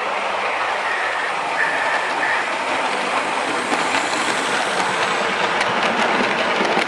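Train wheels rolling along rails with a steady rushing noise, a faint squeal early on and light clicks over the rail joints in the second half.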